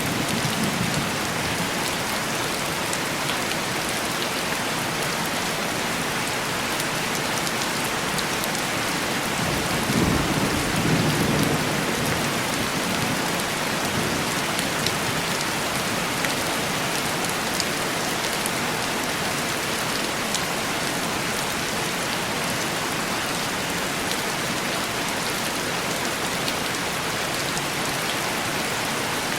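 Heavy rain falling steadily on a window pane, with a low roll of distant thunder fading out at the start and another about ten seconds in.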